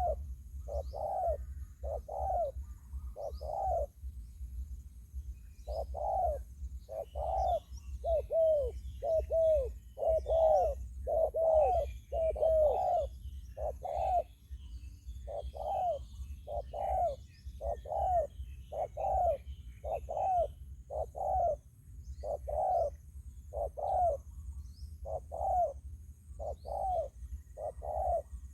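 Spotted dove cooing: a long series of short, evenly repeated coos, each dipping slightly in pitch, delivered in phrases with brief pauses about four seconds in and again near the middle. Faint chirps of small birds and a steady low rumble lie underneath.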